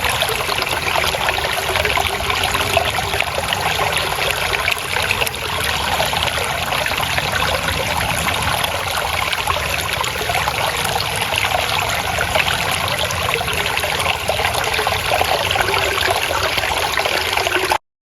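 Steady trickling and babbling of flowing water in a stream, which cuts off suddenly near the end.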